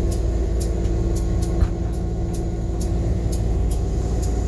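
Locomotive engine running with a steady low rumble and a held tone that drops out about three seconds in. Sharp high ticks repeat about twice a second, and there is a single knock about a second and a half in.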